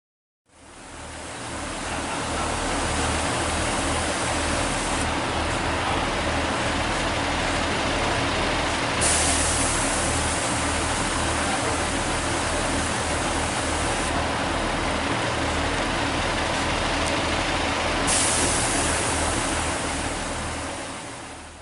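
Class 144 diesel multiple unit running: a steady mix of engine and rail noise over an uneven low throb, growing a little louder and brighter about nine seconds in and again near eighteen seconds.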